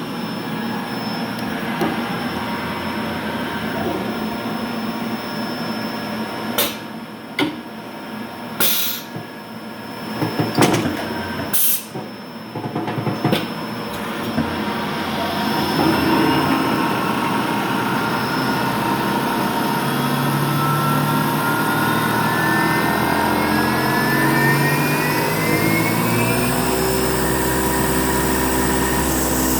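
Hurco MB-1 CNC milling machine running with a steady mechanical hum. Several sharp knocks and clicks come near the middle, then the spindle winds up with a rising whine and settles into a steady pitched drone.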